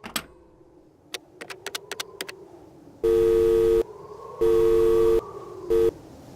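A run of sharp clicks, then an electronic two-note beep of the telephone-line kind, sounding twice for under a second each and once briefly near the end.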